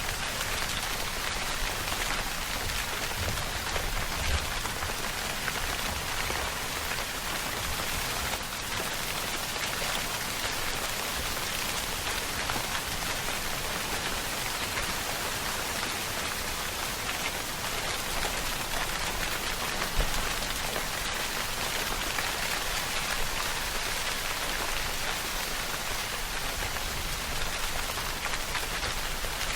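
Steady rainfall, drops pattering on a surface in an even hiss, with one slightly louder drop about twenty seconds in.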